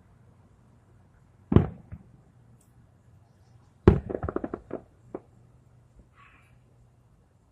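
Fireworks going off: a loud bang about one and a half seconds in, then another bang about four seconds in followed by a quick run of sharp pops lasting about a second.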